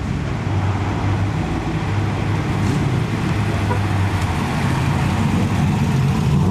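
Car engine running with a steady low exhaust note, with road noise around it.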